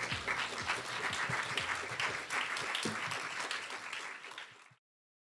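Audience applauding, dense clapping that fades in the last second and cuts off suddenly.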